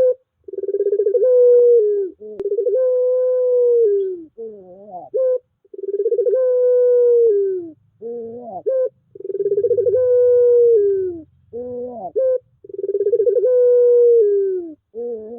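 Puter pelung dove cooing over and over: each call opens with a few short, broken, rising notes and then swells into one long, drawn-out coo, about two seconds long, repeated five times.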